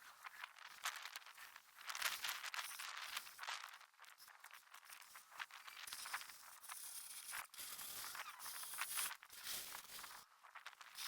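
Hand-truck snow pusher blade scraping and shoving snow across a driveway: an uneven, scratchy hiss that swells and eases with each push.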